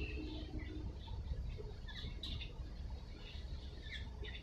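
Small birds chirping in quick, scattered calls over a steady low rumble.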